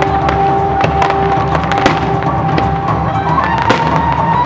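Aerial fireworks bursting and crackling, many sharp reports in quick succession, over music with long held notes.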